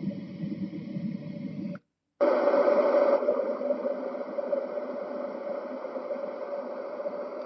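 Yogasleep Duet sound machine playing its built-in soothing sounds through its speaker: a deep, rumbling noise cuts off a little under two seconds in, and after a short silence a brighter, steadier noise with a constant tone in it starts as the next sound in the cycle.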